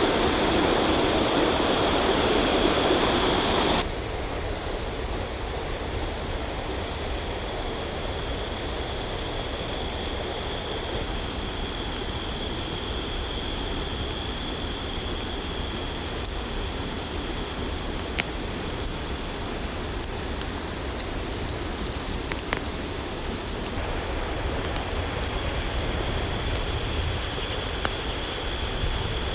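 Steady rushing of a river with a continuous high-pitched insect drone over it, and a few faint sharp clicks. The sound changes abruptly about four seconds in, dropping in level, and shifts again near the end.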